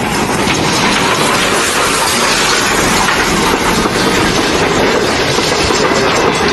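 Steam locomotive made up as Thomas the Tank Engine running along the track, a steady, dense rush of engine and rail noise.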